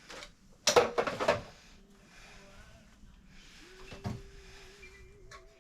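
A quick clatter of several sharp knocks about a second in, then a single softer knock about four seconds in.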